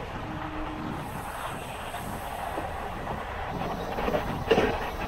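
Running noise of the Ernad Express passenger train's coach: a steady rumble, with one sharp knock about four and a half seconds in.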